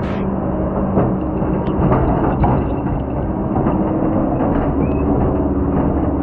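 Heavy diesel logging machinery running steadily under load, with a few brief knocks or clanks about one, two and two and a half seconds in.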